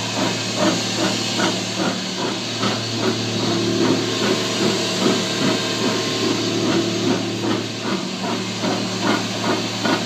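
1996 Toyota 4Runner's rear end grinding, a rhythmic pulse about three times a second over a steady hum. The owner suspects a rear wheel bearing; fresh differential fluid showed no excess metal or broken teeth.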